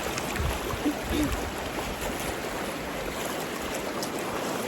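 River rapids rushing, a steady noise of churning white water, with a couple of brief faint vocal sounds about a second in.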